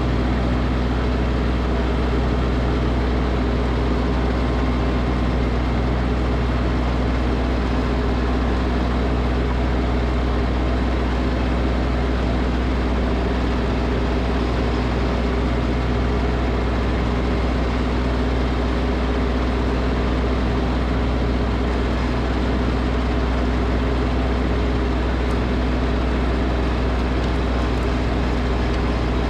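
Snowblower's engine running steadily at constant speed, with no change in pitch or level.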